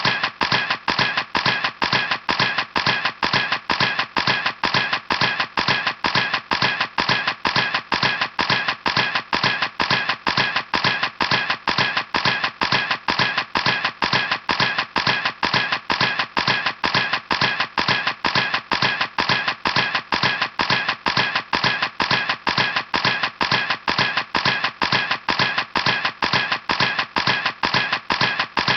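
Camera shutter clicking over and over in a steady, rapid rhythm of about three clicks a second.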